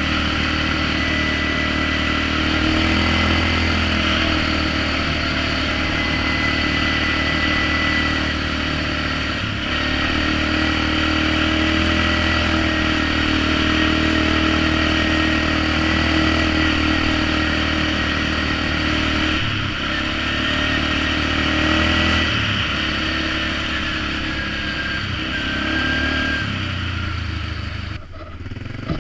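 Polaris Magnum 425 ATV's single-cylinder four-stroke engine running through a DG Performance RCM-II aftermarket muffler while riding. The engine speed rises and falls several times with throttle and shifts, and it briefly drops off near the end.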